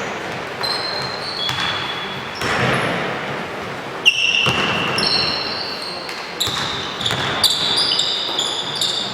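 Basketball play in an echoing gym: the ball bouncing on the court with sharp knocks, and several short high squeaks typical of sneakers on the hardwood floor.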